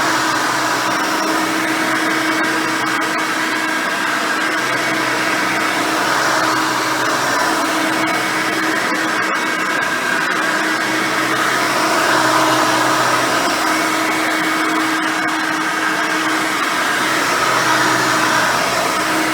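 Hoover Elite 600 upright vacuum cleaner running steadily on its 6-amp motor with a single-row brush roll spinning, during a cleaning pass; a steady whine that swells slightly in level now and then.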